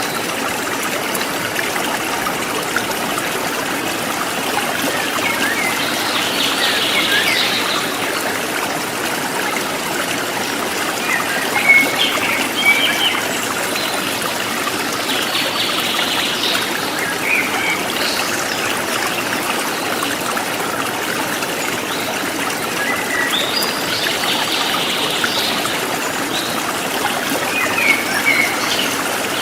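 A river flowing steadily over stones, a continuous trickling rush of water. Birds call briefly several times over it.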